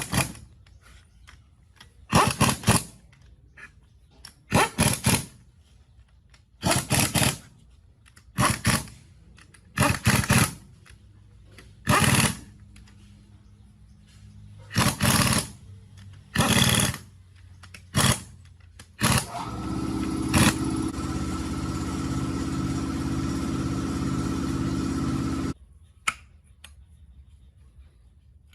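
A run of short, harsh strokes, each about half a second long and roughly two seconds apart, like hand scraping or sanding on metal. Then a small power tool motor runs steadily for about six seconds and cuts off suddenly.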